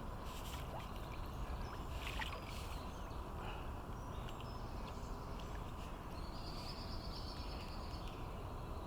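Lake water sloshing and lapping around a landing net that holds a large carp, under a steady low rumble of wind on the microphone.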